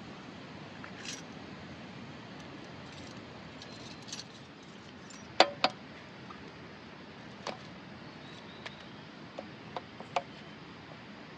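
Small hard objects being handled: scattered light clicks and clinks, with two sharper knocks in quick succession about five and a half seconds in.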